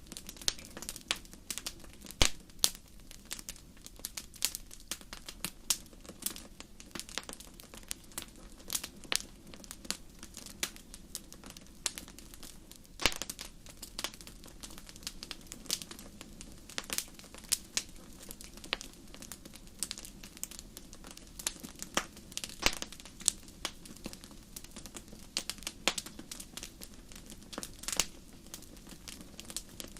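Wood fire crackling in a fireplace: irregular sharp pops and snaps, several a second, over a low steady background. A few louder pops stand out, about two seconds in, around the middle, and about three quarters of the way through.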